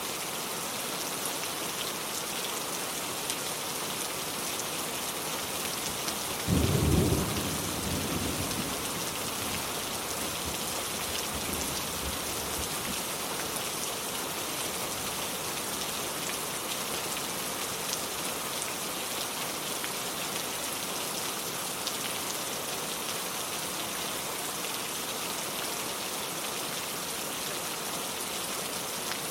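Steady rain falling, with one sudden thunderclap about six and a half seconds in that rumbles away over the next few seconds.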